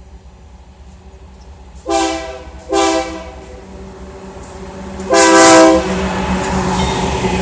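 Locomotive air horn sounding three blasts: two short ones about two and three seconds in, then a longer, louder one about five seconds in. After it, the low rumble of the approaching train builds up.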